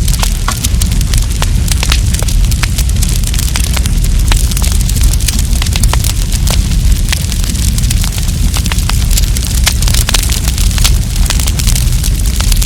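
Wood campfire crackling and popping, with many sharp snaps close together over a steady low rumble.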